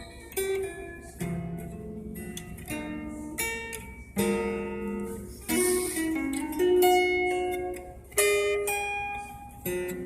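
Acoustic guitar being played slowly, chords and single notes plucked one after another and left to ring out.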